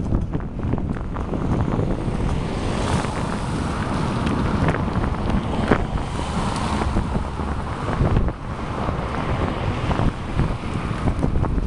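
Wind buffeting the microphone of a camera carried on a moving bicycle: a steady, loud rushing rumble with scattered small clicks and rattles.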